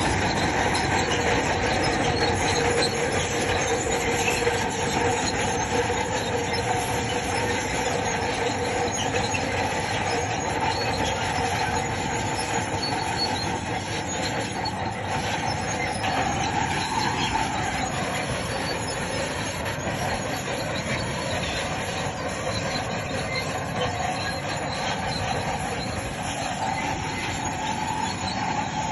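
Crawler bulldozer working: its engine running with a steady squeal from the steel tracks and undercarriage, the pitch of the squeal shifting about halfway through.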